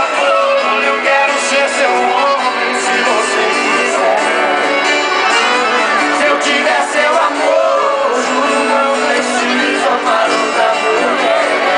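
Live sertanejo music: voices singing a melody over strummed guitar and band accompaniment, loud and steady.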